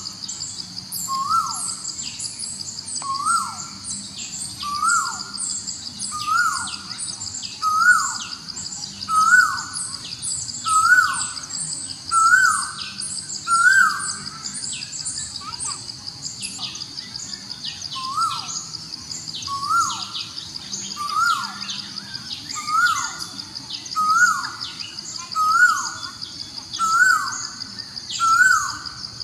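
A bird repeating a short call over and over, roughly once a second with a brief pause midway, each note rising then dropping quickly, with higher chirping from other birds and a steady high-pitched whine running underneath.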